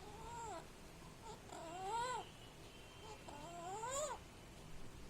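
Pet parrot giving three drawn-out calls, each rising in pitch and breaking off, with short pauses between.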